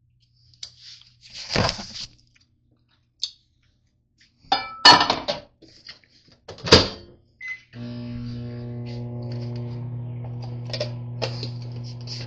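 A few knocks and clatters of handling, a short beep, then a microwave oven switches on and runs with a steady electrical hum from about eight seconds in.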